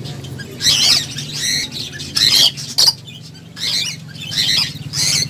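Small birds chirping and trilling in short high-pitched bursts, roughly one call a second, over a steady low hum.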